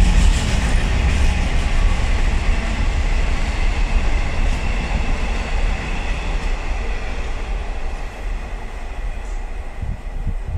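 Container wagons of an intermodal freight train rolling past on the rails: a steady rumble that slowly fades as the last wagons go by and the train draws away.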